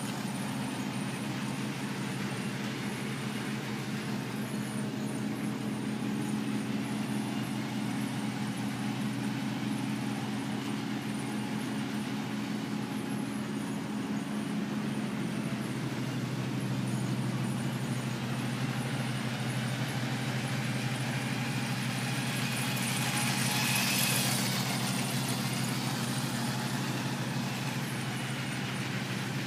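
Electric LEGO train motors running, a steady whirring hum with light ticking over the track; the sound swells briefly about three-quarters of the way through.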